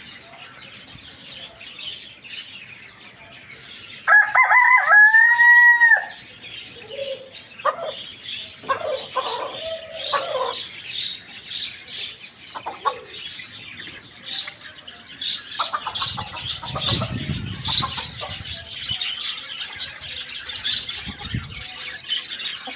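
A rooster crows once, loudly, for about two seconds about four seconds in, followed by a few short clucks. Small birds chirp steadily throughout.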